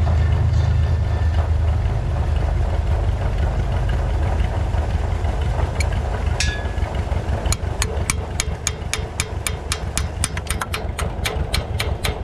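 An engine idling steadily. About halfway through, a run of sharp ticks sets in at roughly four a second and keeps going.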